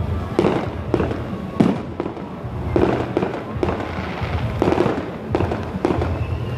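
Fireworks display: a rapid, irregular series of shell bursts, about a dozen bangs and crackles, the sharpest about a second and a half in.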